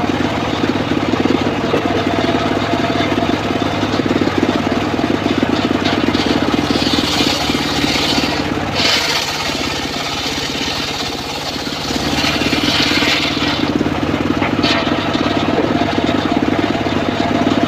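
Homemade engine-driven circular sawmill running steadily. For several seconds in the middle a higher, hissing saw sound rises over the engine as the blade cuts through a teak log, then falls back to the engine running alone.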